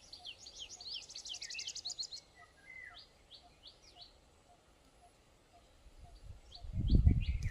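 Small birds chirping in short falling calls, with a fast high trill about a second in and fewer calls after the first two seconds. A low rumble rises near the end.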